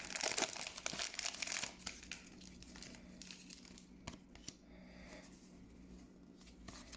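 Foil Pokémon booster pack wrapper being torn open and crinkled by hand for the first couple of seconds, followed by a few faint crinkles and clicks of handling.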